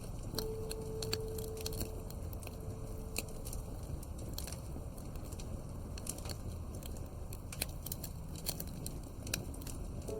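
Wood fire crackling, with irregular sharp pops and snaps over a low, steady rumble. A soft held note sounds for the first few seconds.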